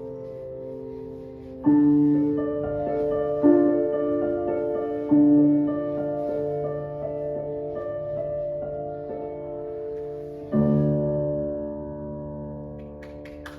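Piano playing slow, held chords, with several strong chords struck in the first half; a final loud chord about ten seconds in is left ringing and slowly fading.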